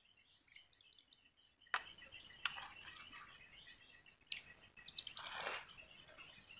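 Faint chirping of small birds, with three sharp clicks, the loudest about two seconds in, and a brief rustle near the end.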